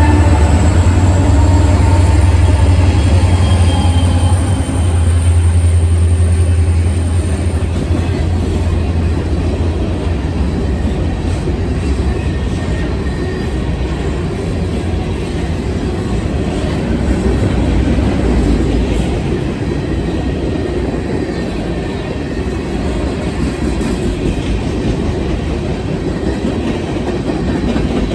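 A three-unit CSX diesel lash-up (GP38-2, SD50-3 and SD40-2) passing close on a local freight train. A loud, low engine rumble eases off over the first several seconds and gives way to the steady rolling clatter of the freight cars going by.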